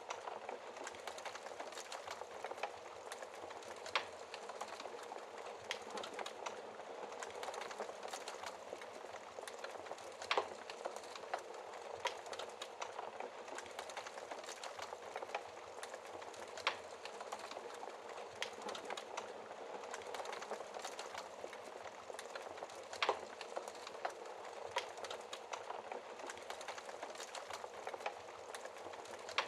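Wood fire burning in a fireplace: a steady soft hiss and rustle of flames with frequent small crackles and a few louder sharp pops, roughly every six seconds.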